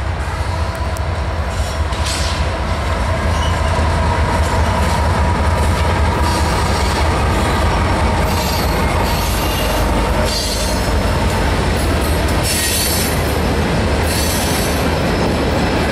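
CSX freight train passing close: the GE AC44CW and EMD SD40-2 diesel locomotives rumble by, growing louder over the first few seconds. The tank cars follow, rolling past with bursts of high-pitched wheel squeal from about halfway on.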